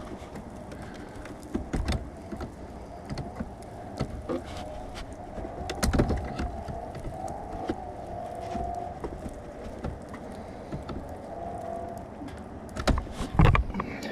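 Repeated small clicks and knocks of a stuck fuse being worked loose from a truck's under-hood fuse box, with a cluster of louder knocks near the end, over a steady background noise.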